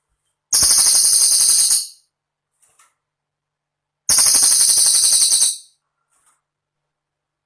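Cililin bird singing: two high, rapid, jingling trills of about a second and a half each, a couple of seconds apart.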